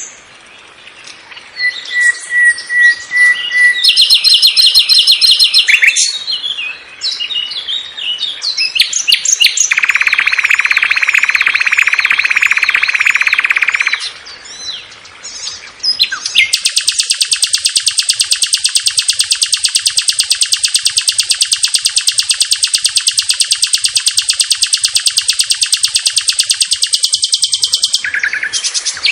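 A songbird training recording of the kind used to teach long-tailed shrikes new song fillers: a run of different bird songs, short chirps and whistles at first, then a steady buzzing trill about ten seconds in lasting about four seconds, and from about sixteen seconds a long, very fast, high-pitched trill that goes on for some twelve seconds.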